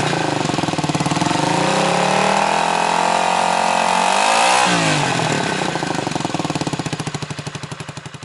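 Honda CB250RS-Z's single-cylinder four-stroke engine, breathing through an aftermarket muffler, running with a throttle blip about four and a half seconds in: the revs rise and fall back. Near the end the sound fades away.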